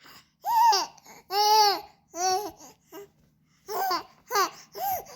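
A baby babbling in a string of about six short, high-pitched vocal sounds, with one longer drawn-out sound near the middle.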